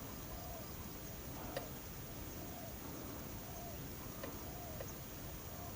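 Dove cooing in a repeated series of short rising-and-falling notes, about two a second, over steady outdoor hiss, with a faint tick about one and a half seconds in.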